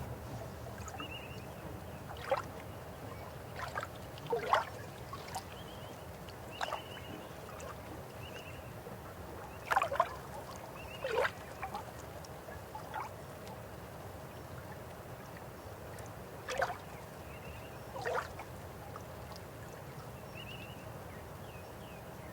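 River water flowing steadily, with bird calls over it: about eight short, sharp calls that drop in pitch, and fainter high chirps in between.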